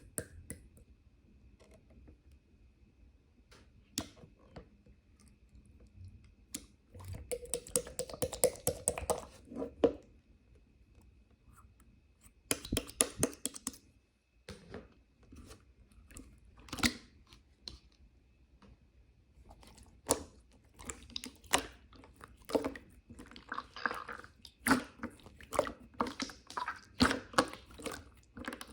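Irregular close-up clicks and crunching noises coming in short clusters between quieter stretches, over a faint steady high tone.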